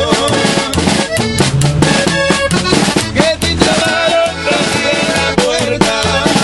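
Live music from a trio of performers, a song with held melodic notes over a steady beat.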